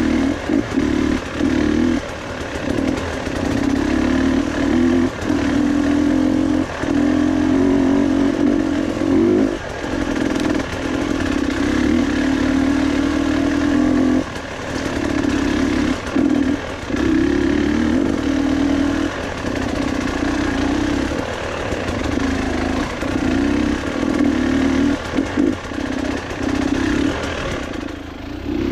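Motorcycle engine running while riding, its note repeatedly dropping away for a moment and picking up again as the throttle is eased off and reopened.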